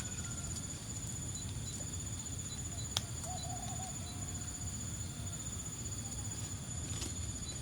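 Outdoor nature ambience: a steady high-pitched insect drone over a low rumble, with a single sharp click about three seconds in. Just after it, a bird gives a faint low wavering hoot-like call lasting about two seconds.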